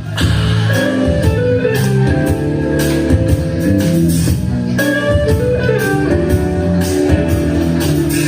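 Live rock band playing an instrumental passage: guitars and bass over a steady drum beat, heard through an audience recording in the room.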